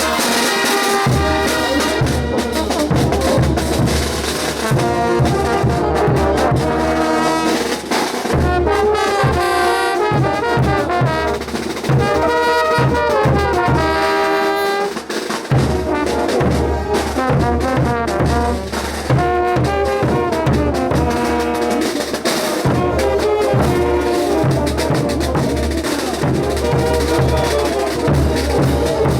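Bolivian brass band playing ch'uta dance music, with trumpets and trombones carrying the melody over a steady bass-drum beat. The drums drop out for several seconds a little past a quarter of the way in, leaving the brass alone, then come back in.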